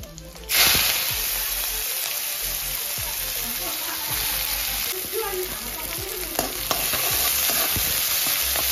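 Sliced onions dropped into hot oil with carom seeds in a metal kadai, setting off a loud sizzle that starts suddenly about half a second in and keeps on steadily as they are stirred. A few clicks of the spoon against the pan are heard.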